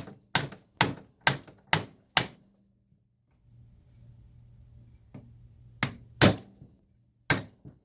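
Hammer blows on the bent chassis of a Leslie 122 amplifier, knocking the dent back out: a run of about six sharp strikes half a second apart, a pause of about three seconds, then three or four more spaced strikes.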